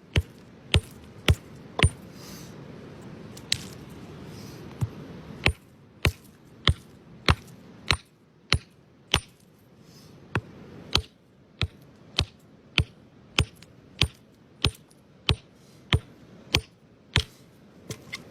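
Hammer tapping steadily on rock, sharp ringing strikes about one every 0.6 s. There is a gap of roughly three seconds after the first few strikes, with only two softer taps in it.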